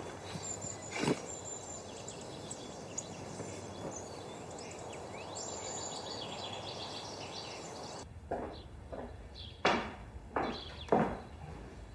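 Small birds chirping over a steady outdoor hiss. About two-thirds of the way through, the outdoor sound cuts off and five sharp knocks follow at uneven spacing.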